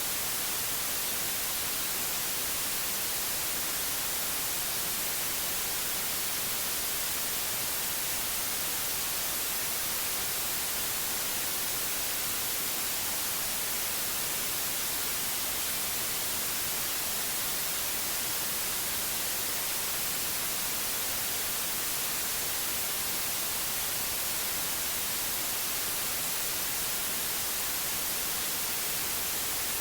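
Steady white noise: an even, unbroken hiss with no change in level, strongest in the treble.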